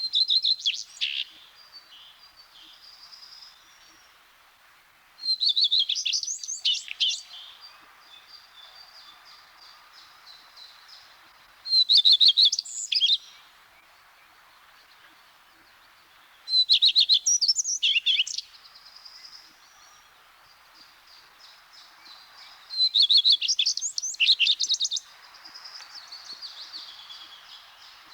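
A male common redstart singing: five short song phrases, each high and quickly varied, repeated about every five to six seconds.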